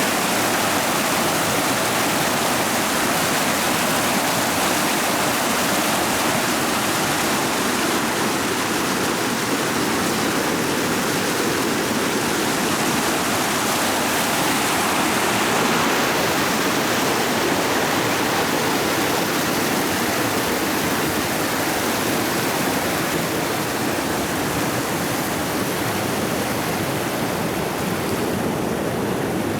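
Creek water rushing and splashing over rocks, a steady, unbroken rush.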